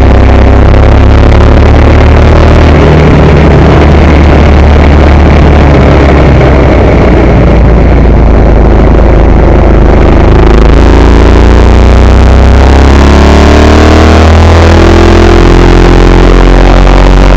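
Ducati 916 Evo's 90-degree V-twin engine, loud and close on the bike, holding a steady note through a long bend. About ten seconds in it revs up, its pitch climbing in steps as it goes up through the gears, while wind noise rises with the speed.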